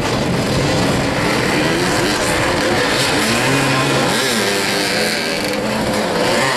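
Several motoball motorcycles revving during play, their engine notes rising and falling and overlapping one another.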